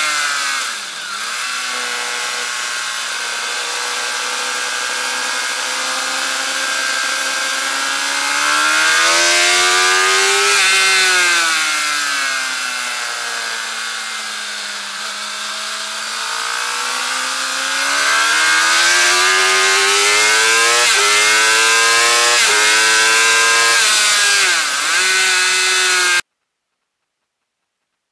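Suzuki GSX-R 750 inline-four engine under hard riding: the revs climb, fall away to a low through a slower stretch in the middle, then climb again in several short rising sweeps broken by quick gear changes near the end. The sound cuts off suddenly shortly before the end.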